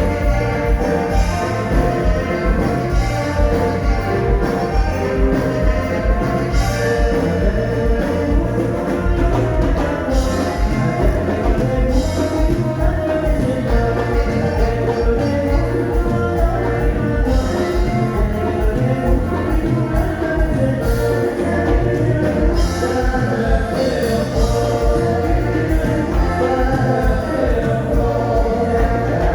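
A band playing music with singing over a steady, pulsing bass beat.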